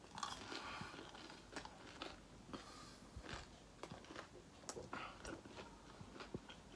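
A person chewing food close to the microphone: faint, irregular crunches and mouth clicks.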